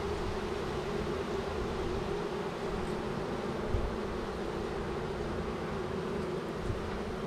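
Honeybees buzzing steadily in a dense hum around an opened hive, with one brief low knock a little past the middle.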